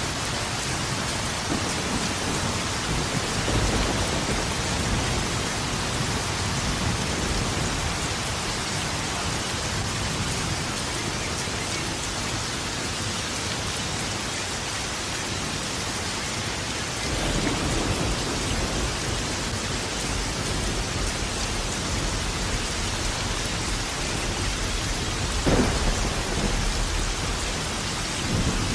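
Steady heavy rain falling, with rolling thunder rumbling in the background: a swell a few seconds in, a longer low rumble past the middle, and a sharper thunderclap a few seconds before the end.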